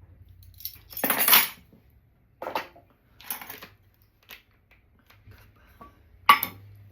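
A metal spoon scraping and clinking against kitchenware while baking ingredients are measured and mixed. A longer scrape comes about a second in, a few shorter scrapes follow, and there is a sharp clink near the end.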